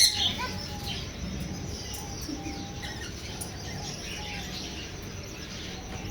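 Several small birds chirping in short, scattered calls over a steady outdoor background hiss, with one loud, sharp rising call at the very start.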